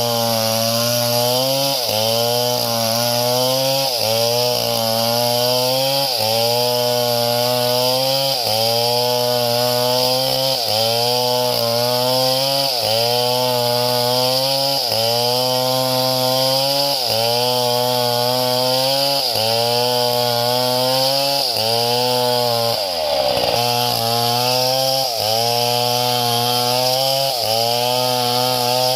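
Small chainsaw running under load, its engine pitch sagging and recovering in a steady cycle about every second and a half to two seconds as it cuts wood.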